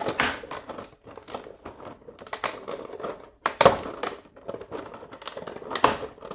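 Packaging of a boxed scale model being pulled open by hand: irregular crinkling and rustling, with sharper scrapes about three and a half seconds in and near the end.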